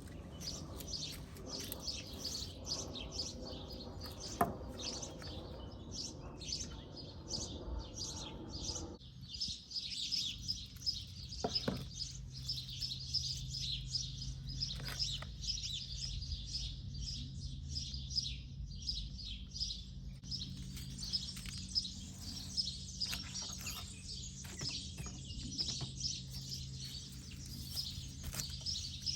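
Many small birds chirping and twittering at once in a continuous chorus, with a low steady hum joining about twelve seconds in.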